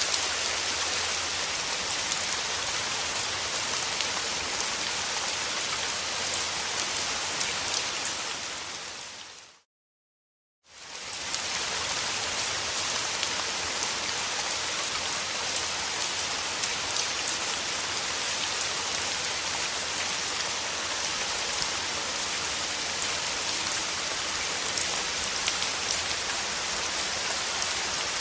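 Steady rain, a dense even hiss of drops. About a third of the way in it fades out to a second of complete silence, then fades back in.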